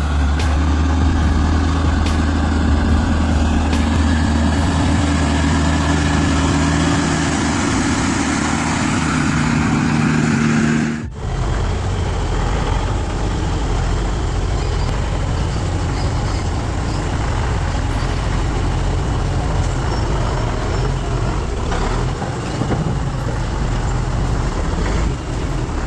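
Heavy truck engine running with a steady, deep engine note. About 11 seconds in, the sound cuts abruptly to another truck engine's lower, rougher rumble.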